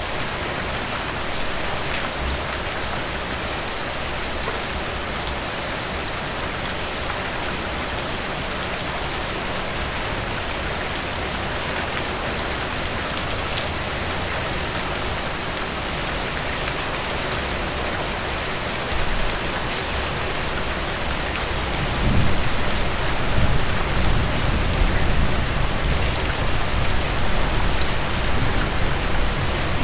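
Heavy rain falling steadily, with fine spatters of drops. About three-quarters of the way through, a low rumble swells in and stays, making it louder.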